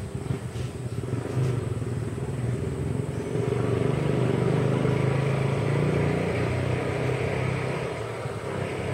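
Low, steady engine rumble of a motor vehicle, swelling louder around the middle and easing off near the end.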